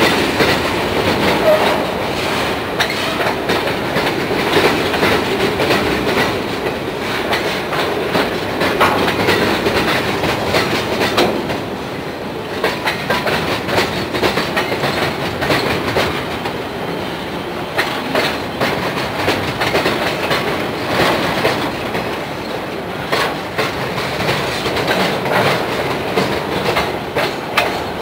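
Freight cars rolling past at trackside: steel wheels clicking over rail joints in an irregular stream over a steady rumble and rattle of the passing cars.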